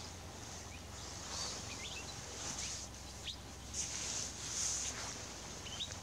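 Birds giving short, scattered chirps over a steady high hiss and a low hum.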